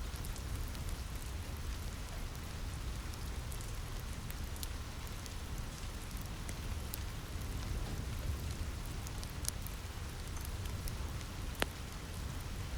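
Steady rain on a roof with a low rumble underneath, and scattered sharp crackles from a wood fire, one louder pop near the end.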